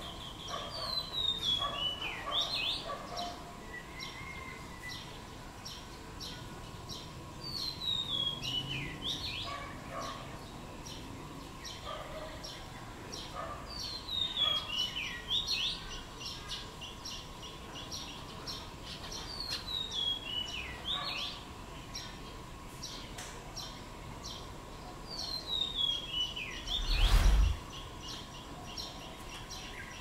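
Bird song: a descending run of quick high notes ending in a short upward flick, repeated about every six seconds, five times. Near the end comes a brief low thump, the loudest sound.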